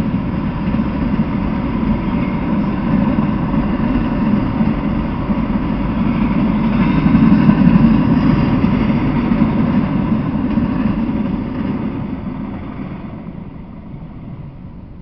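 Freight train of autorack cars rolling past on the rails: a steady rumble of wheels on track that swells about halfway through, then fades over the last few seconds as the end of the train goes by.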